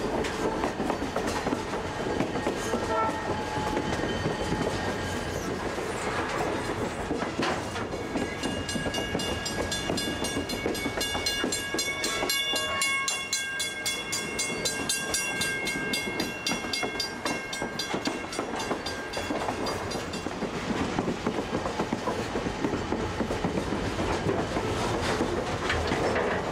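Passenger train running on its rails, with a steady rumble and wheel clatter heard from beside the diesel locomotive. About eight seconds in, the locomotive's multi-note air horn starts blowing and holds for about twelve seconds as the train nears a road crossing.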